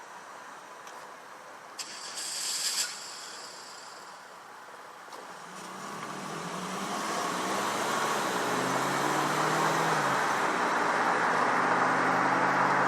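Car engine heard from inside the cabin, faint at first, then growing louder as the car accelerates, its note shifting in pitch before settling into a steady hum. A brief hiss about two seconds in.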